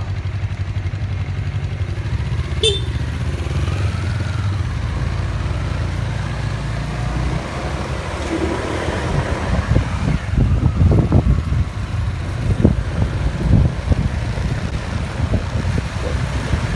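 Motorcycle engine running steadily, then turning uneven and rumbling from about ten seconds in as the bike is ridden.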